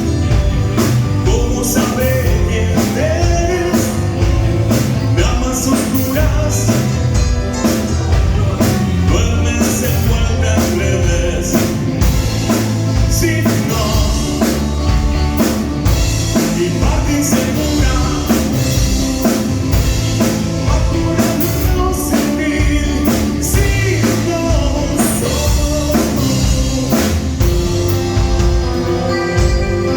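A live band playing a song with a singer over drum kit and guitar during a sound check, picked up on a mobile phone's microphone.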